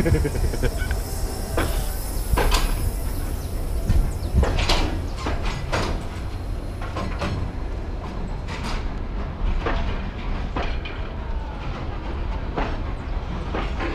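Passenger train coaches rolling slowly past on arrival: a steady low rumble with irregular clacks and knocks from the steel wheels on the rails.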